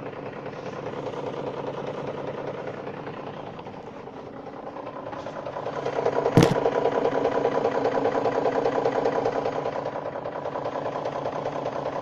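BMW M62B44TU 4.4-litre V8 running hot with a fast, even knock: the sound of scored (scuffed) cylinders. It gets louder for a few seconds about halfway through, and a single sharp click sounds about six seconds in.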